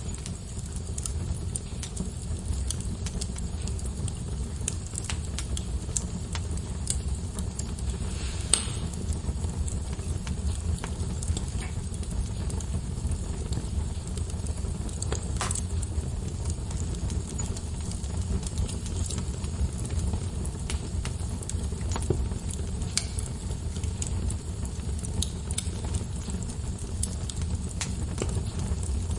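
Log fire in a fireplace crackling: a steady low rumble of flames with scattered snaps and pops throughout, two louder pops at about eight and fifteen seconds in.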